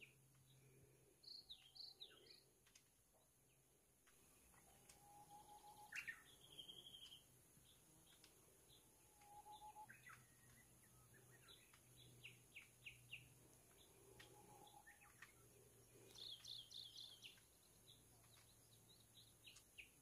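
Faint birdsong from woodland birds: scattered bursts of short, high chirps and quick trills, with a soft, lower whistled note about every four to five seconds.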